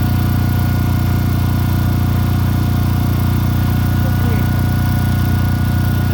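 A machine running at a constant speed: a steady low drone with a held tone above it, unchanging throughout.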